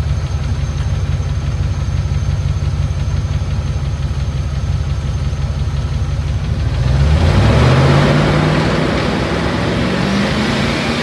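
P38 Range Rover engine, dosed with Rislone for a sticking valve or lifter, idling steadily; about seven seconds in it revs up, its pitch rising.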